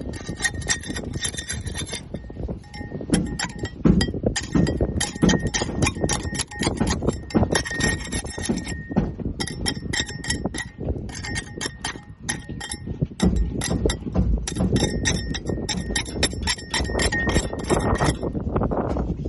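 Barnacles being scraped off a boat hull: a dense, rapid run of scraping clicks and crackles with a faint steady high tone beneath, pausing briefly a few times.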